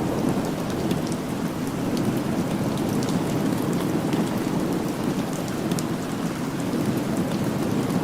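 Steady rain falling, with a low rumble underneath and scattered sharp ticks throughout.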